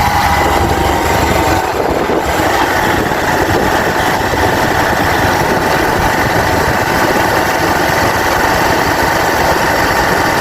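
Motorcycle running steadily while riding along a road, its engine mixed with steady road and wind noise.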